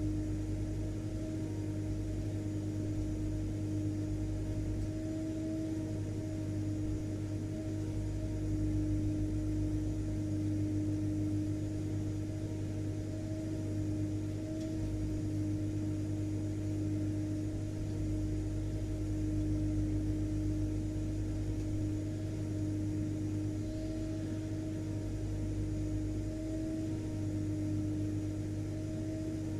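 Vacuum cleaner running steadily: an unchanging motor drone with a steady whine over a low hum.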